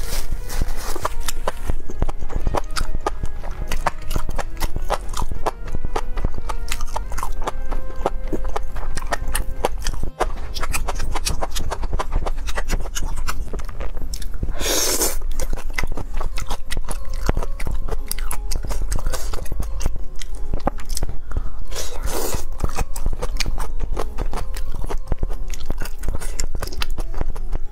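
Close-miked chewing and biting of spicy fried skewered food, with many small wet mouth clicks throughout. There are two louder, noisier bites or crunches, one about halfway through and another about three-quarters through.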